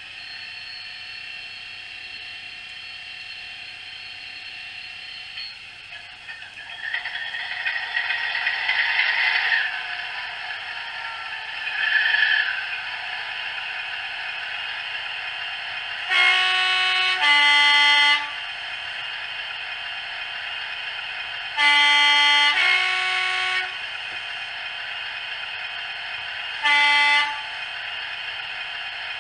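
Howes DCC sound decoder in an OO-scale Heljan Kestrel model playing a diesel locomotive engine sound through the model's small speaker: it starts up, runs and revs briefly, then settles to an idle. Over the idle come a two-tone horn (high note then low), a second two-tone horn (low then high), and a single short horn note near the end.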